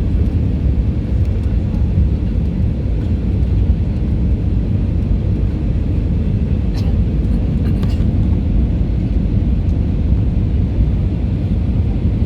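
Steady drone of a passenger jet's cabin in flight, a deep even rumble of engine and air noise, with a couple of brief clicks or rattles a little past halfway.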